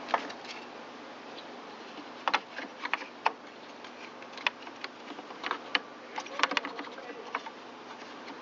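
Scattered light clicks and taps of hand tools and metal engine parts being handled during reassembly of a backpack blower's valve cover area, over a steady low background hum.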